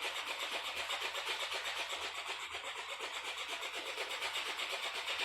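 Old 20 HP stationary diesel engine running steadily with a fast, even beat, under a constant hiss.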